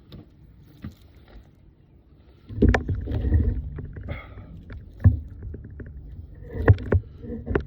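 A series of sharp knocks over low rumbling handling noise. It starts about two and a half seconds in, with a few knocks one to two seconds apart.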